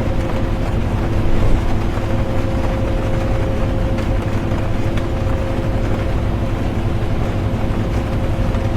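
Inside a moving bus: a steady engine drone and low road rumble with a constant whine, under an even hiss of rain, and a few faint ticks.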